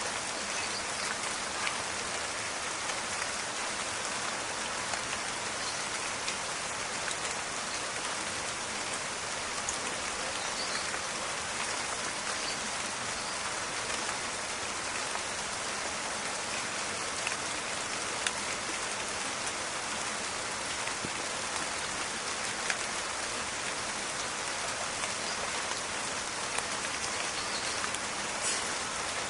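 Steady rain falling in a forest, an even hiss with scattered close drops ticking and crackling.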